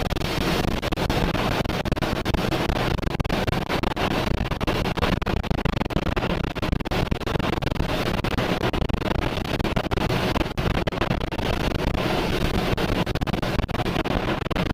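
Tornado-force wind buffeting the microphone: a loud, steady rushing rumble, heaviest in the low end, with many sharp knocks and cracks throughout.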